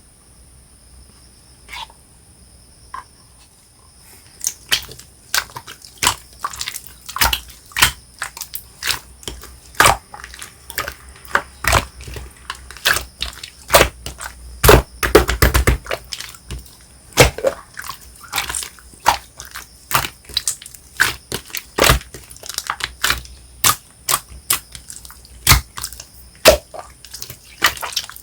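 Soft, jelly-like marbled slime being squished and pressed by hand, giving a run of irregular wet clicks and pops from trapped air, several a second, starting about four seconds in. Two faint clicks come before that, and a faint steady high whine runs underneath.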